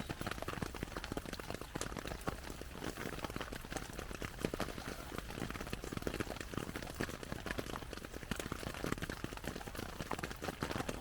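Falling snow and meltwater pattering on a nylon tarp: a dense, irregular ticking and tapping.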